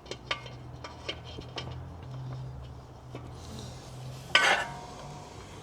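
Small clicks and taps of hands working on metal car parts under the car, with one louder metallic clink that rings briefly about four seconds in, over a steady low hum.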